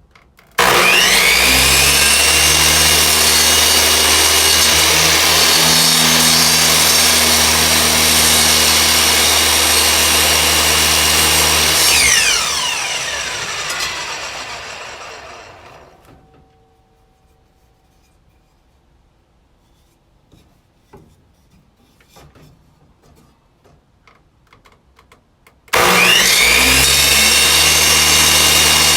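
Electric power tool motor switched on, whining up to speed and running steadily for about eleven seconds, then switched off and winding down over a few seconds. It starts up again near the end, with a few small clicks and knocks in the quiet between.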